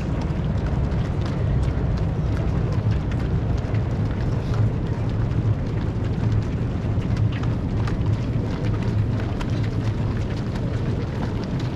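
Many marathon runners' footsteps pattering past, a dense scatter of light steps over a steady low rumble.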